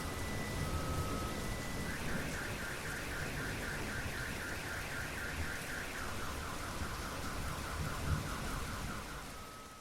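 Steady rain with a car alarm sounding over it. The alarm alternates two steady tones, then switches to a fast repeating chirp of about four a second, then a lower chirp at the same pace. A faint low rumble of thunder runs underneath, and everything fades out at the very end.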